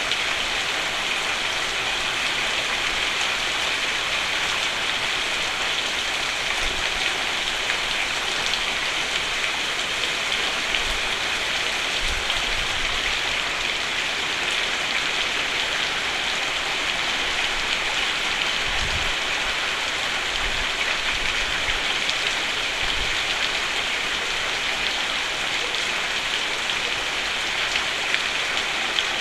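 Steady heavy rain falling on a roof, an even, unbroken hiss of drops.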